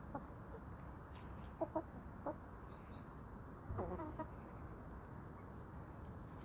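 Chickens clucking in short, scattered clucks: two about one and a half seconds in, one a little later, and a short run of clucks about four seconds in. A faint high bird chirp comes in near the three-second mark.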